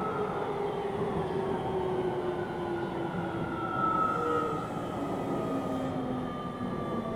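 Keio 7000 series electric train running, heard from on board: a rumble of wheels on rail with several whining motor tones that slowly fall in pitch as the train slows.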